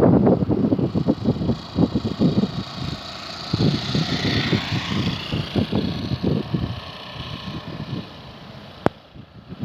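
A heavy truck passing on the highway, its tyre and engine noise swelling to a peak about halfway through and then fading, with wind buffeting the microphone throughout. A sharp click near the end.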